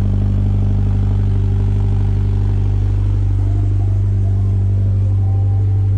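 A 2014 Scion FR-S's 2.0-litre flat-four engine idling steadily, really loud through an exhaust whose muffler has been deleted, with a deep, even drone.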